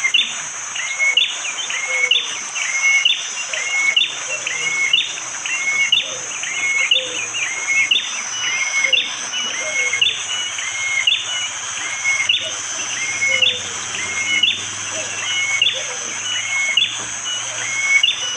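Prenjak jali (a prinia) repeating a short, sharp two-note call about once a second: a hooked note followed by a higher clipped one. A steady high hiss runs behind it.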